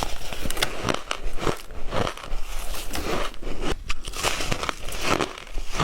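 Close-miked biting and chewing of white ice: a quick, uneven run of sharp, crisp crunches, several a second.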